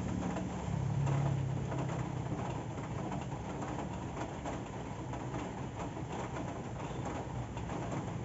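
Steady rain with many small drips and ticks, over a low hum that swells briefly about a second in.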